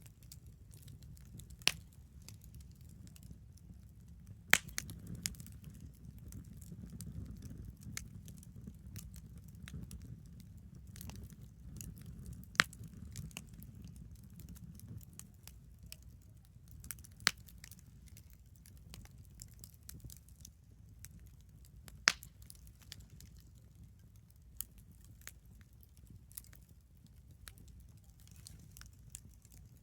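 Wood campfire crackling, with several loud, sharp pops scattered among fainter snaps over a low, steady rumble.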